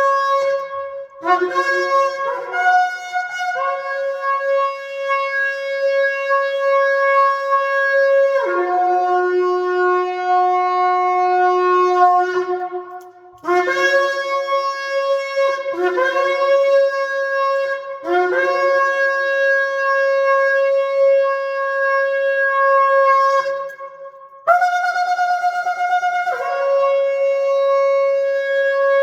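A 39-inch spiral shofar is blown in long, loud, sustained blasts, with a few short blasts at the start. The note steps between two or three pitches, and the player breaks briefly for breath about halfway through and again near the end.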